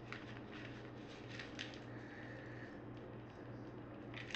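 Faint, scattered soft rustles and light scrapes as grated Parmesan cheese is added into a bowl of panko breadcrumbs, over a low steady hum.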